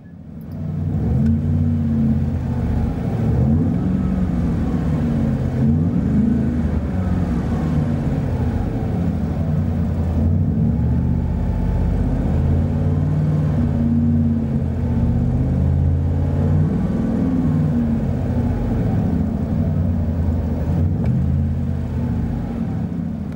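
Car engine breathing through a FlowPro true dual exhaust with cross-flow mufflers, its pitch rising and falling repeatedly as the revs climb and drop.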